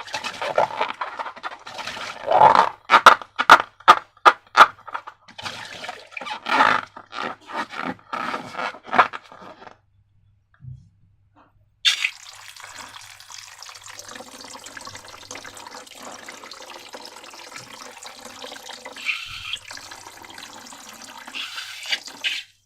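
Wet slime squelching and crackling in sharp irregular clicks for about ten seconds. After a short pause, a steady stream of slime or liquid pours out for about ten seconds and stops suddenly.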